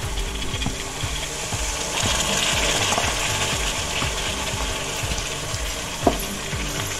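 Chopped tomatoes sizzling in hot oil with fried onions, garlic and spice masala in a pan, a steady frying hiss that gets louder about two seconds in. One light knock about six seconds in.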